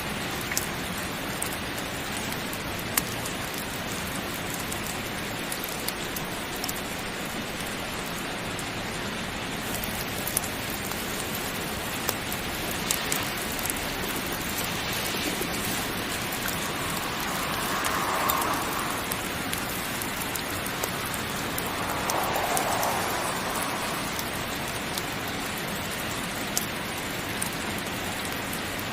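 Steady heavy rain with scattered sharp clicks of drops, swelling a little twice past the middle.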